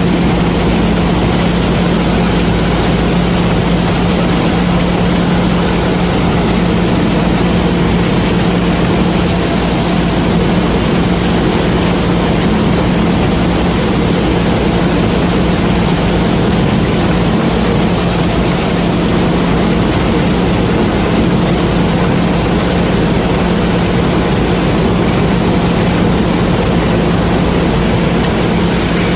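Combine harvester running steadily at working speed while harvesting corn, a constant loud engine hum and machinery noise, with a brief high hiss twice.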